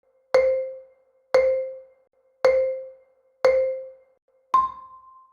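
Countdown cue of five short chime-like tones about a second apart, each fading quickly: four at the same pitch, then a fifth an octave higher that rings a little longer.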